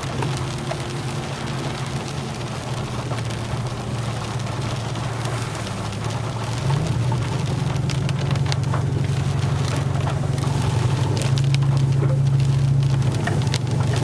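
Rain pattering on a truck's roof and windshield, heard from inside the cab over the steady hum of the truck's engine. The engine note rises a little about seven seconds in and is louder near the end as the truck picks up speed.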